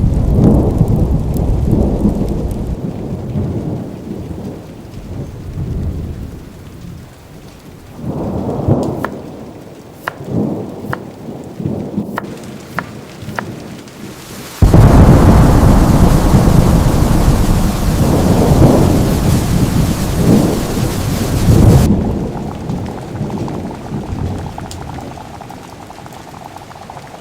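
Thunderstorm: steady rain with rolling thunder that swells and fades, and a few sharp cracks. About fifteen seconds in, a sudden loud thunderclap breaks with a hiss of heavy rain, rumbles for several seconds, then eases back to distant rumbling.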